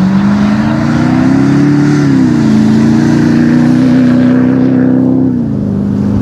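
Jeep Grand Cherokee's 3-litre V6 turbo diesel accelerating hard at full throttle. Its 8-speed automatic upshifts twice: the engine's pitch climbs, falls suddenly about two seconds in, climbs again and falls once more near the end.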